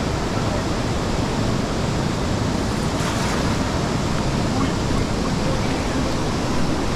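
Steady rushing noise of fast-flowing, swollen river water, mixed with wind on the microphone.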